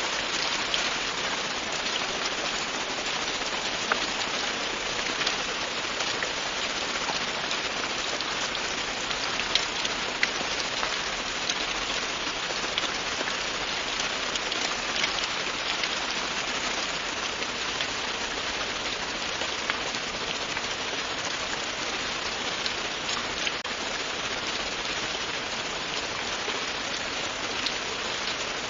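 Steady, continuous rain with many scattered individual drops ticking on a surface.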